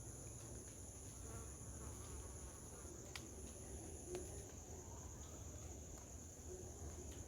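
Insects droning steadily and faintly in a high, even pitch, with a thinner, higher-pitched insect tone above it that breaks off about three seconds in and again about four and a half seconds in. A few faint clicks are scattered through.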